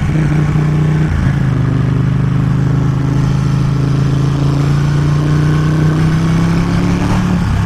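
Ducati 1199 Panigale's L-twin engine running under way, with a short break about a second in, then its pitch climbing slowly and steadily as the bike gathers speed.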